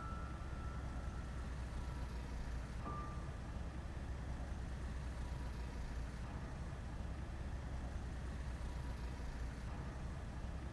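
Sparse, slow piano music. A held note fades away and a single soft note sounds about three seconds in, over a steady low rumble.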